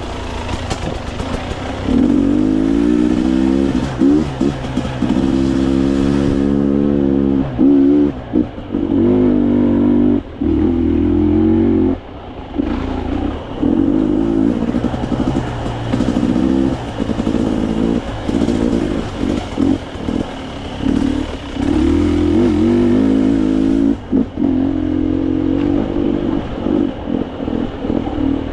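Dirt bike engine riding a trail, revving up and down as the throttle is opened and closed, with frequent short drops where the rider rolls off. Clatter from the bike mixes in.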